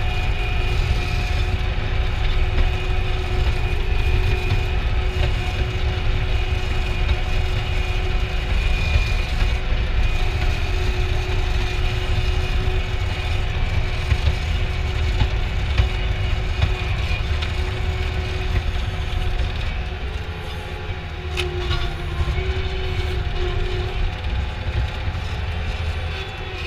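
An engine running steadily, with a low rumble and a steady hum; it eases off slightly about twenty seconds in.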